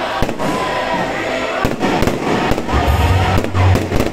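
Aerial fireworks bursting overhead in a string of sharp bangs and crackles, over background music whose deep bass comes in about three seconds in.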